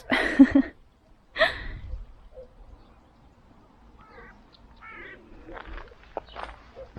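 Bird calls outdoors: one loud harsh call, falling in pitch, about a second and a half in, then short warbling chirps around four and five seconds in. Scattered short rustling noises come near the end.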